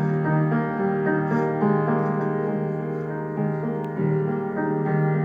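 Piano playing the introduction to a song, a run of sustained, changing chords.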